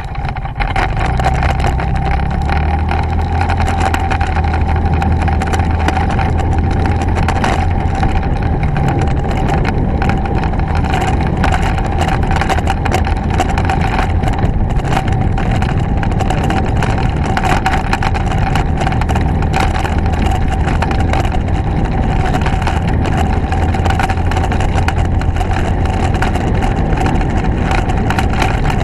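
Motorcycle engine running steadily on the move, with a steady whine and a dense crackle over the low rumble.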